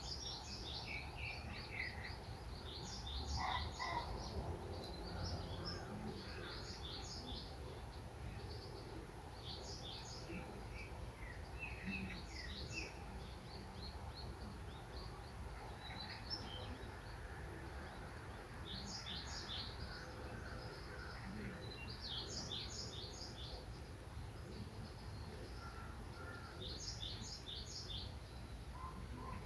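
Small songbirds chirping and twittering in short bursts of quick repeated notes every few seconds, over a steady low background rumble.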